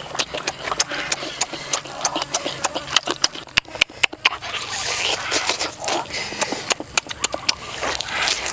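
Close, wet chewing and lip-smacking as roasted pork belly is bitten and eaten, a rapid run of sharp smacks and clicks with a thicker crunching stretch about halfway through.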